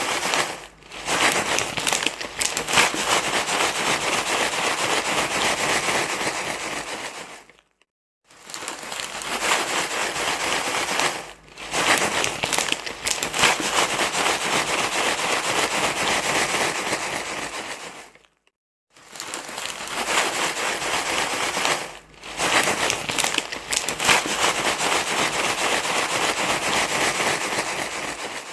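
Dense crinkling rustle, made of many fine crackles, in long stretches broken by brief silences about a quarter and two thirds of the way through. It is a rustling noise played to soothe a crying baby.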